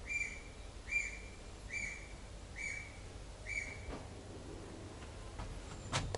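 A bird whistling one flat, high note five times, evenly spaced about a second apart, followed by a sharp click near the end.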